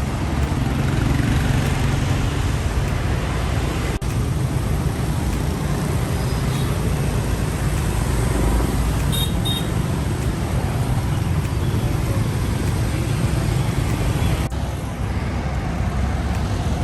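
Heavy truck engine running with road and traffic noise, heard as a steady low rumble across a few joined clips. Two short high beeps come about nine seconds in.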